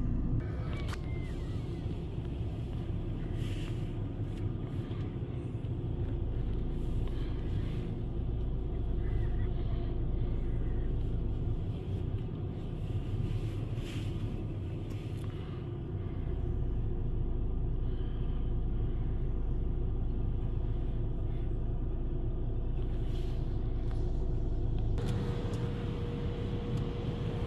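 Steady low rumble heard from inside a car going through an automatic tunnel car wash, with a few faint knocks; a steady hum joins near the end.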